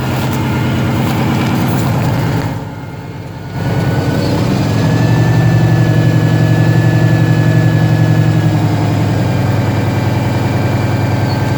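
1995 Mack truck's diesel engine idling shortly after a cold start at −18, a steady pulsing run. It drops in level briefly about three seconds in, then comes back louder and a little higher-pitched from about four seconds on.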